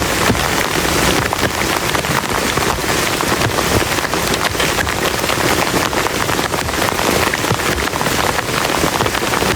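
Heavy rain falling steadily, a dense, even rush made of countless separate drop hits.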